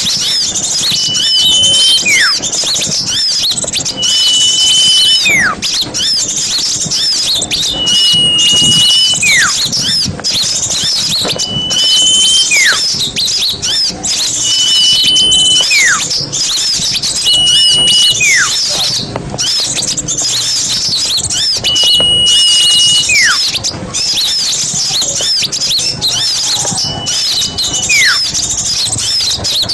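A dense chorus of many small birds chirping and chattering. Over it, one call repeats about eight times, every few seconds: a short level whistle followed by a quick falling sweep.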